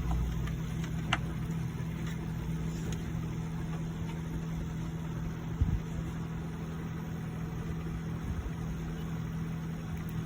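Dell Inspiron 3521 laptop speaker giving out a steady low buzzing hum, the fault symptom that comes with its blank display. A few light clicks and a small knock from handling the board sound over it.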